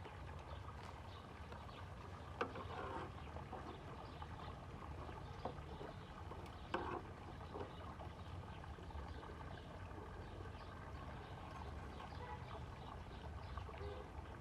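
Faint steady low rumble with a few light clicks or taps, about three spread across the span.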